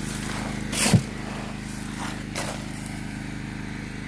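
An engine idling steadily, with a short, loud sound about a second in.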